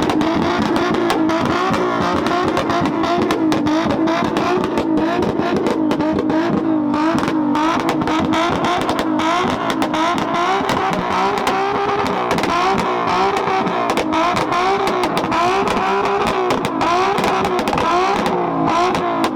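A rev-battle car's engine held at high revs, its pitch bouncing rapidly up and down, with a constant fast crackle of exhaust pops.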